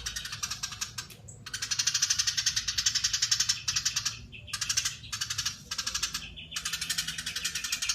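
Eurasian tree sparrow (burung gereja) giving a long, dense chattering call (crecetan) of rapid, evenly spaced high notes, broken by a few brief pauses.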